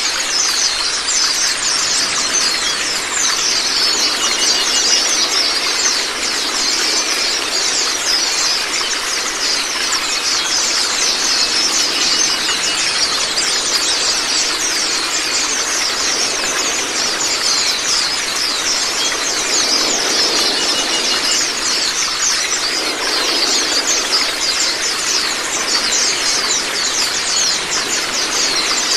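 Wild white-eyes (pleci, Zosterops) singing and chattering without a break, many rapid high chirps overlapping, over the steady hiss of running water.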